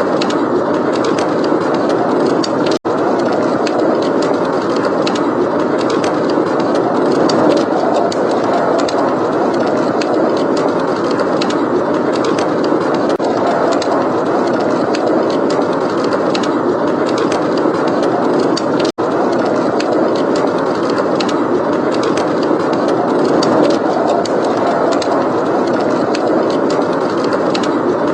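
Steady blizzard wind blowing, with a wood fire crackling and popping in a fireplace throughout. The sound cuts out for an instant twice, about three seconds in and again about nineteen seconds in.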